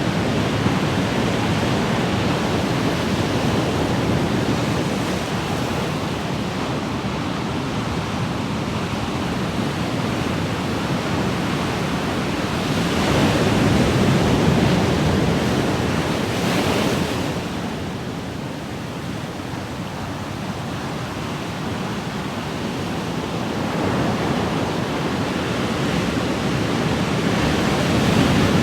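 Ocean waves washing onto a shore in a continuous rush, swelling to a louder surge about halfway through, then easing before building again near the end.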